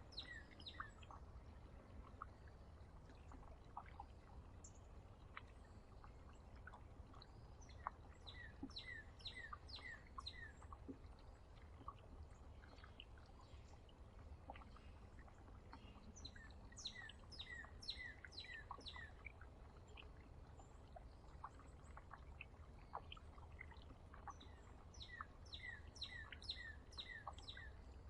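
Faint songbird song: bouts of quick repeated chirpy notes, each bout two to three seconds long, coming back about every eight seconds. Beneath it a steady low rumble and occasional small clicks.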